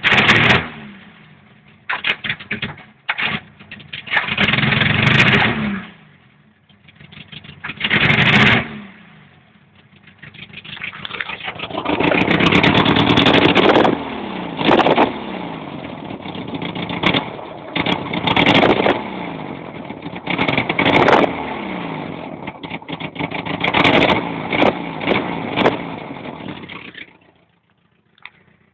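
Vehicle engine revved in short throttle blips, each rev falling back in pitch, first a few separate bursts and then a long run of repeated revs that cuts off near the end. The owner hears a knocking and a whistle from the engine since starting it.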